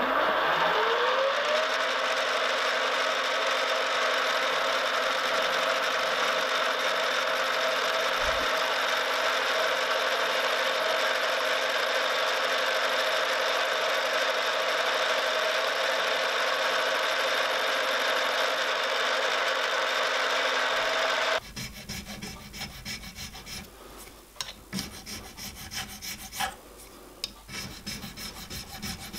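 A shop machine's motor starts with a rising whine, then runs with a steady rasping, grinding noise while tapers are put on the teeth of a steel spur gear. It stops abruptly about 21 seconds in, leaving light clicks and handling noises.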